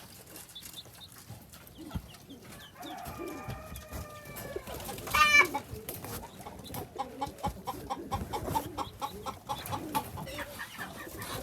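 Chickens clucking, with a drawn-out call a few seconds in, a loud rapid burst of calls at about five seconds, and then a run of evenly spaced clucks, about three or four a second.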